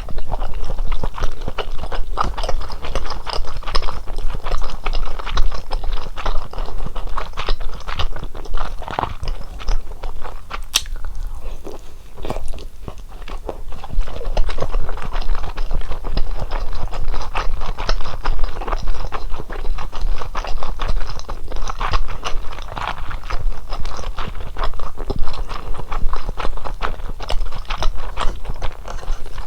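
Close-miked chewing of fish cakes from hot fish cake soup: a dense run of wet, clicky mouth sounds, easing briefly about eleven seconds in before picking up again.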